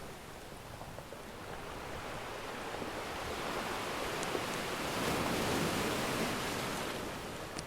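Ocean surf washing ashore, a wave swelling to its loudest just past the middle and then drawing back, with a faint crackle or two from a wood fire.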